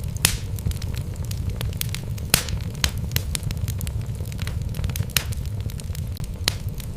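Wood fire burning in a fireplace: a steady low rumble of flames with irregular sharp crackles and pops from the logs, a couple of them louder than the rest.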